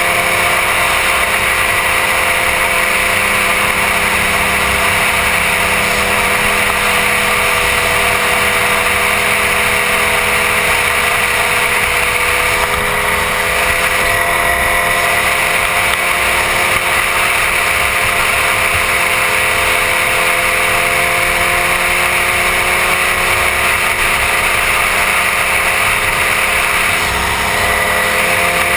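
2006 Suzuki GSX-R1000's inline-four engine running at a steady cruising speed, its pitch holding nearly level, under heavy wind rush on the helmet-mounted microphone.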